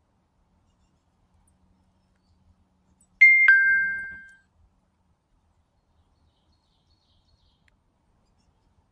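Two-note ding-dong chime, like a doorbell: a higher note struck, then a lower one, ringing out for about a second, about three seconds in.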